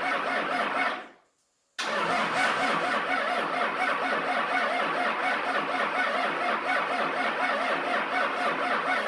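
Diesel engine cranking over on its starter with an even, repeating chug, not catching. The sound cuts out abruptly about a second in and resumes a moment later.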